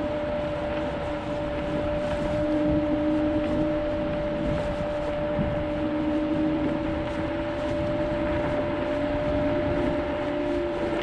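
Kaabo Wolf GT Pro electric scooter ridden at a steady speed: a steady high whine and a lower, wavering hum over rushing wind and road noise.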